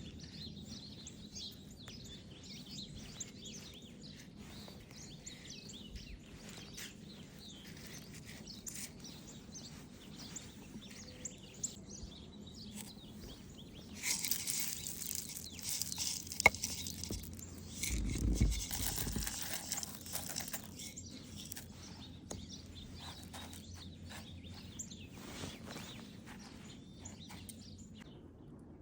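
Birds chirping and twittering throughout in short, high calls. About halfway through comes a louder stretch of rustling noise lasting several seconds, with a sharp click and a low thump within it.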